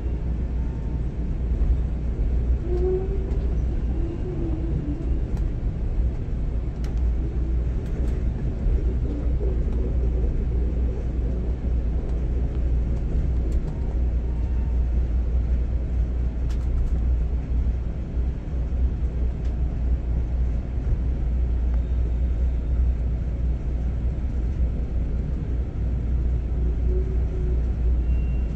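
Steady low rumble of a moving train, wheels on rail, heard from aboard a passenger train, with a few faint clicks.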